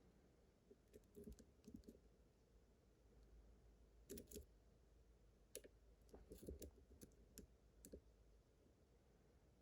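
Faint, scattered small metal clicks of lock picking tools: a pick being inserted and worked against the pins of a pin-tumbler lock under tension, in irregular clusters.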